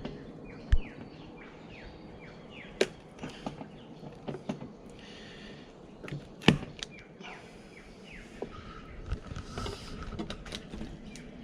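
A few sharp knocks and cracks from a wooden native-bee hive box being prised apart, with brief scraping between them. Birds chirp throughout with short falling calls.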